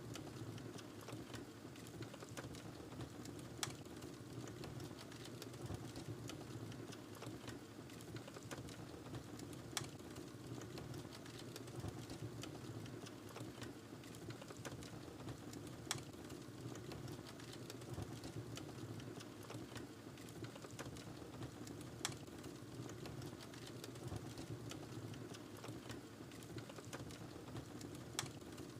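Wood fire in a fireplace crackling, over a low steady rumble of the flames, with a sharper pop about every six seconds.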